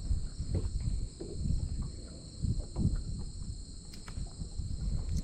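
Steady high-pitched insect chorus, with irregular low knocks and rustles of handling close to the microphone and a couple of sharp clicks about four seconds in.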